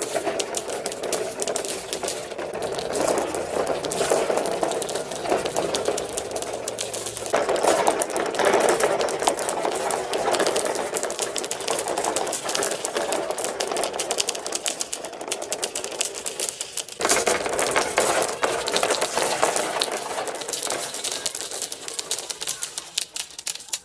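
Marbles rolling and clattering down plastic marble-run ramps, a dense stream of clicks and rattles. The sound changes abruptly about seven seconds in and again around seventeen seconds.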